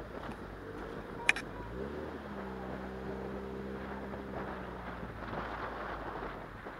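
Mazda MX-5's four-cylinder engine running at low speed, with wind on the microphone. A sharp click comes about a second in. Then the engine note climbs, holds steady for about three seconds and drops away.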